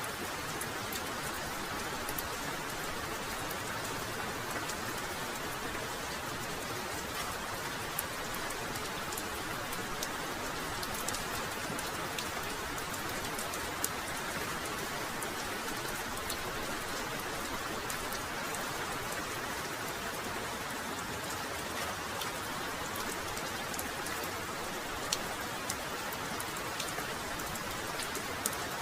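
Heavy rain falling steadily, a dense even hiss with scattered sharp ticks of single drops landing close by.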